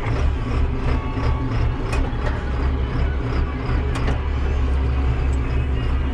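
Farm vehicle's engine running steadily under way, a deep low drone, with a couple of sharp clicks or rattles about two and four seconds in.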